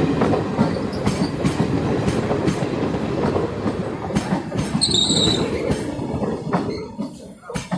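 Express train coaches running past on the line, wheels clattering over the rail joints in a steady rhythm. A brief high-pitched wheel squeal comes about five seconds in, and the clatter falls away near the end.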